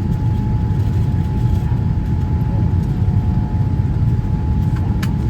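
Boeing 787-9 cabin noise during descent: a steady low rumble of engines and airflow with a thin, steady whine above it. A single click comes near the end.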